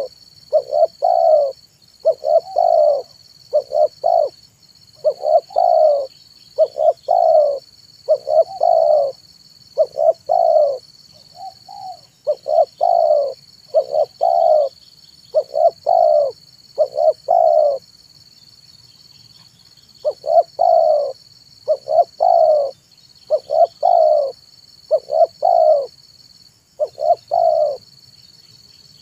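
Spotted dove (tekukur) cooing over and over, a phrase of short coo notes about every second, with a pause of about two seconds about two-thirds of the way through. A steady high-pitched hum runs behind it.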